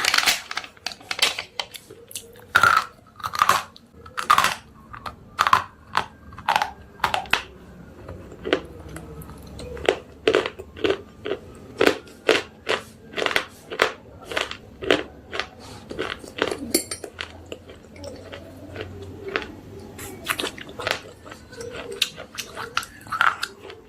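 Close-up chewing of slate pencils: a long run of crisp, loud crunches, about two a second, easing off for a moment in the later part.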